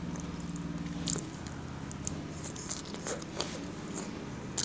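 Close-miked chewing of a mouthful of Caesar salad, with a few sharp crunches about a second apart over a steady low hum.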